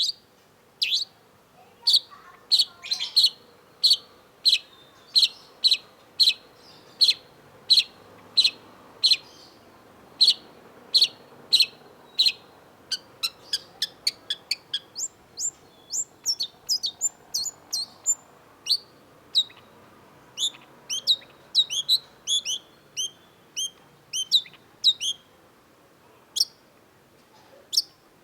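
Long-tailed shrike (cendet) singing: short, sharp notes repeated about twice a second, changing about halfway through into a faster, more varied string of higher chirps that thins out near the end.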